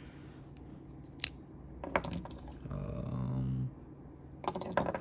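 Sharp metallic clicks and clinks of small folding knives being handled: a single click, then a pair, then a quick cluster near the end.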